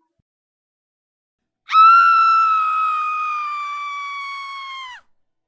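One long, high-pitched scream, starting with a sudden onset and held for about three seconds, its pitch sinking slowly before it drops off at the end.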